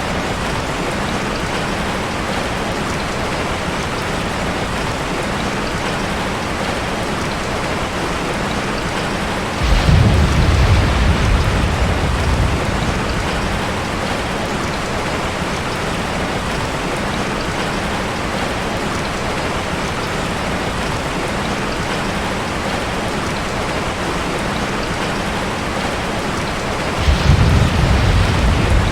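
Steady rain falling on a forest, an even hiss throughout. Two short, low rumbles of thunder break in sharply, one about a third of the way in and one near the end.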